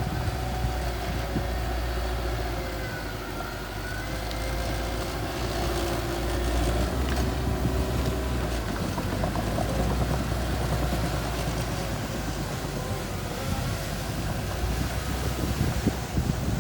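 Mini bulldozer's engine running steadily under load, its pitch wavering slightly.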